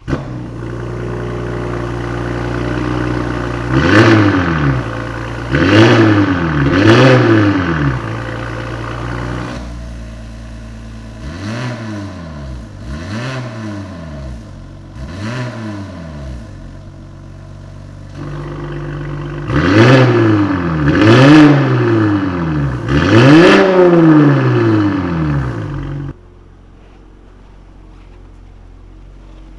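BMW X5 45e's turbocharged inline-six starting up with a sharp burst, settling to idle, then blipped in quick revs through a valved catback exhaust with the particulate filter deleted. Three groups of revs: three blips, then four quieter ones, then three louder ones. The sound drops off sharply near the end.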